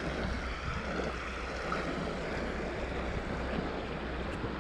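Steady outdoor noise with wind rumbling on the microphone.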